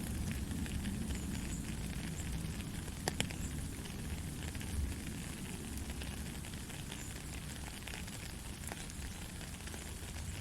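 Soft rain falling steadily: a dense patter of drops, with a sharper drip about three seconds in.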